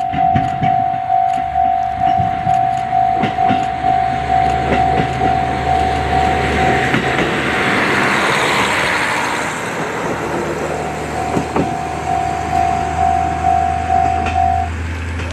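A level crossing alarm bell rings in a steady repeating ding-ding while a diesel railcar, a KiHa 40, runs past. The passing train's noise swells over the bell in the middle, with wheel clicks on the rail joints and a low engine drone under it.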